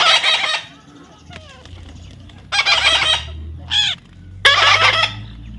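A baby parrot giving several loud, harsh squawks, with a short shrill call between the last two.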